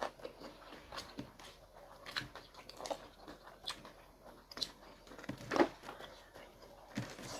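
Chewing and crunching of food during a meal: irregular bites and crunches, with one louder crunch about five and a half seconds in.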